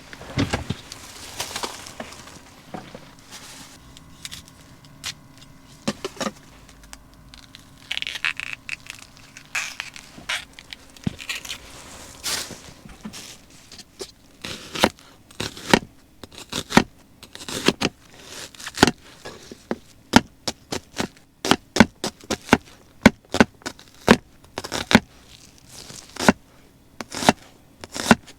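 Irregular clicks, knocks and scrapes of utensils in food preparation, coming quicker and sharper in the second half. A faint steady hum runs underneath from about three seconds in.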